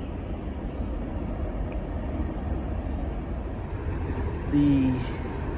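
Freight train rolling by with a steady low rumble of railcars. About four and a half seconds in, a short, loud tone sounds and falls slightly in pitch.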